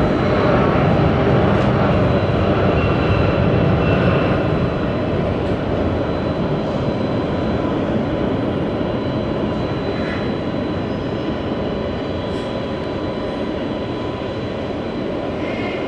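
Jet noise of a Dassault Falcon 900 business jet landing: a steady rush of engine and air noise with a faint high whine. It is loudest in the first few seconds and then slowly fades.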